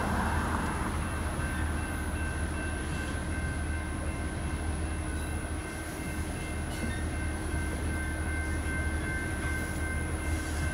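Freight train rolling past with a steady rumble of wheels and cars, and no horn sounding.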